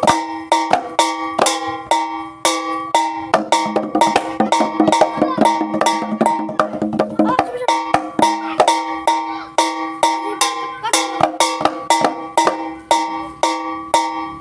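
Jaranan gamelan percussion playing a fast, even beat. Tuned bronze gongs ring steady notes under sharp drum and metal strokes about three times a second, with a denser flurry of strokes from about 3 to 7 seconds in.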